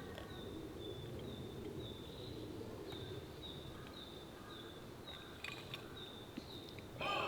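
Outdoor ambience with a small animal's short, high call repeating about twice a second over a steady low hiss. A crow starts cawing right at the end.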